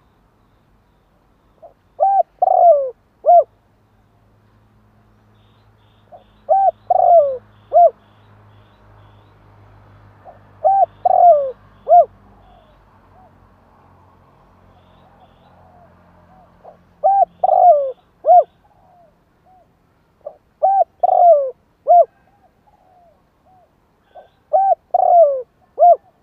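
Spotted dove cooing: six phrases of three or four coos each, one phrase every three to four seconds. It is a decoy dove's call of the kind used to lure wild doves.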